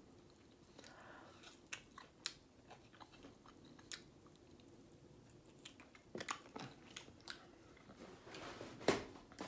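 Close-miked mouth sounds of a person chewing fried chicken: wet clicks and smacks with a few crisp crunches of the coating, coming in irregular bursts and loudest a little after the middle and near the end.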